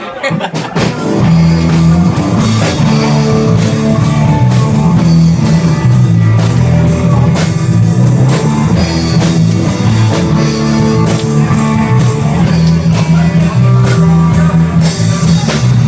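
Live rock band playing loud, with electric guitar, bass and a drum kit; the full band comes in about a second in and keeps a steady beat, with no vocals yet.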